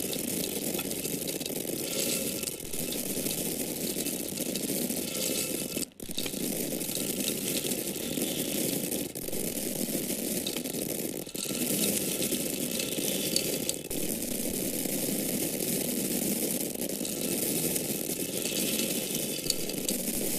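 Dry corn kernels falling in a steady stream of many small clicks and rattles, with a brief break about six seconds in.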